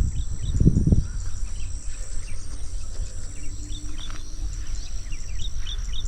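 Insects shrilling steadily at a high pitch, with many short bird chirps scattered through, over a low outdoor rumble and a few dull thumps in the first second.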